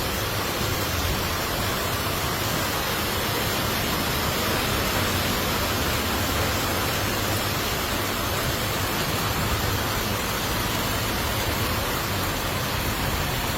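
Steady, unbroken rushing noise of a heavy storm, with a low rumble underneath.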